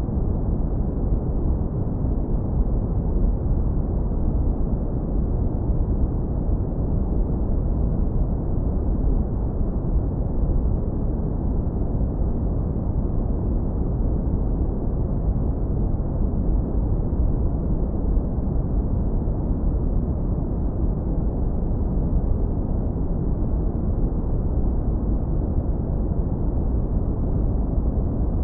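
Synthetic brown noise, low-pass filtered hard to leave a deep, warm rumble with no high end. It holds a constant level, without breaks or changes.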